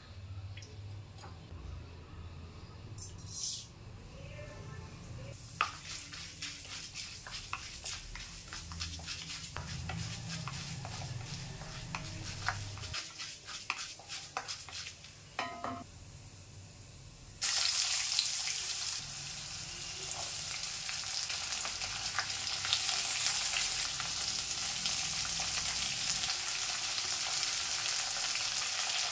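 Dal frying in hot oil in a cast-iron kadai, crackling with many scattered sharp pops while a wooden spatula stirs it. About seventeen seconds in, a loud steady sizzle starts suddenly as chopped tomatoes, onions, green chillies and curry leaves go into the hot oil.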